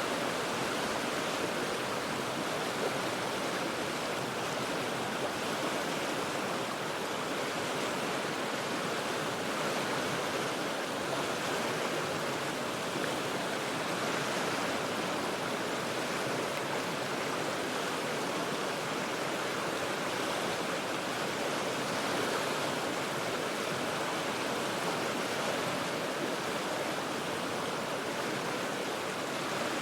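The Cheat River rushing over rocks, heard from high above the water as a steady, even roar of flowing water.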